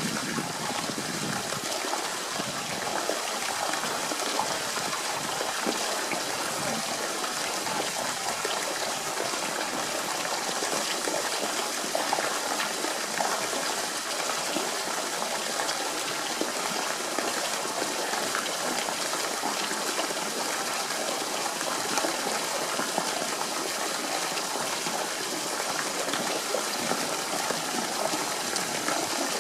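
Steady rush of running water, gushing evenly without pause.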